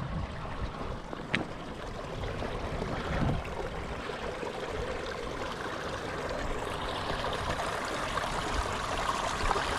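Small seasonal stream running and trickling over rocks, a steady rush of water that grows a little louder towards the end. There is a sharp click a little over a second in.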